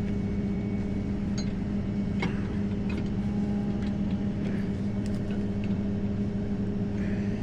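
Tow truck's engine running steadily, a constant even hum, with a few faint clicks over it.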